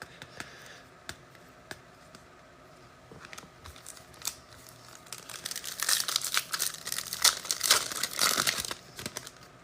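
A foil trading-card pack being torn open and its wrapper crinkled: a few light clicks of handling at first, then a stretch of dense crackling and tearing from about halfway through until just before the end.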